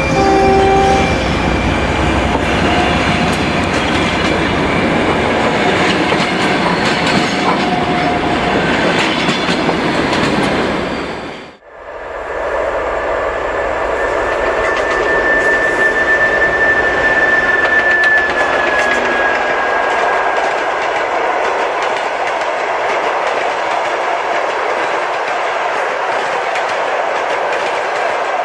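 TEP70 diesel locomotive running with its train, engine and wheels clattering over the rail joints. Partway through the sound fades out for a moment and returns as a different recording, with a steady high whistling tone for several seconds.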